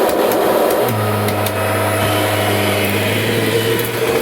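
1998 Kirby Generation 5 upright vacuum cleaner running loudly and steadily, with a few sharp ticks in the first second and a half and a deeper steady hum coming in about a second in.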